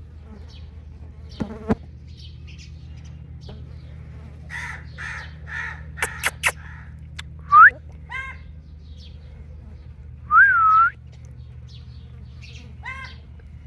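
Indian ringneck parrot calling: scattered soft chirps, a run of raspy chatter with a few sharp clicks about five seconds in, a bright rising whistle, then the loudest sound, a wavering whistle about ten seconds in, and more short calls near the end. A steady low hum runs underneath.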